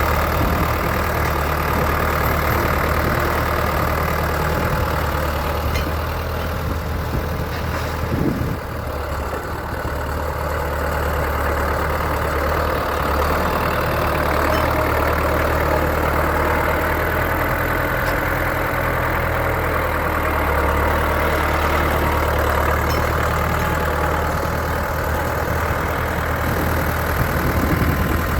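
A 1981 Ford 6600 tractor's 4.4-litre four-cylinder diesel engine idling steadily.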